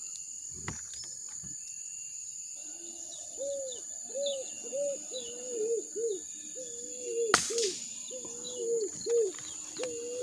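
A bird repeats a low, hooting note about twice a second, starting a few seconds in, over a steady high-pitched insect drone and faint higher chirps. A single sharp click sounds about seven seconds in.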